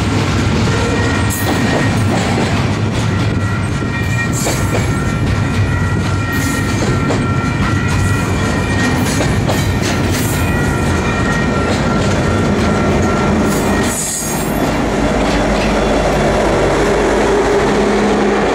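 Double-stack container cars of a freight train rolling past with steady wheel clatter and a thin, steady high squeal. A bit over halfway through, the squeal stops, and the deeper, steady running of the rear distributed-power EMD SD70ACe diesel locomotive takes over as it goes by.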